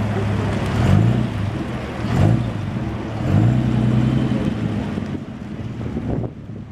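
Car engine idling and revved three times, each blip briefly raising the pitch, then fading away near the end.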